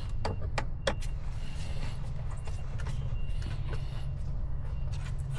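A motor vehicle engine idling with a steady low hum, and a few sharp clicks in the first second or so, with fainter ones later, as parts are handled.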